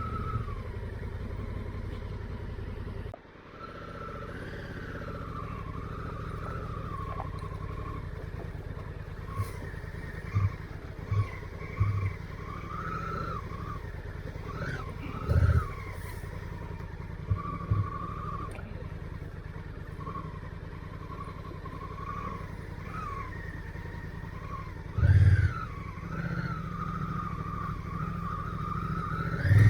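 Motorcycle engine running at low speed, its note rising and falling with the throttle, with a brief drop about three seconds in. Several short, loud low thumps come through over it.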